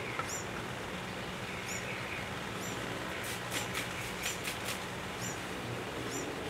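A small bird chirping again and again, short falling double chirps about once a second, over a low steady hum. From about three seconds in comes a quick run of hissing squirts from a trigger spray bottle of soapy water.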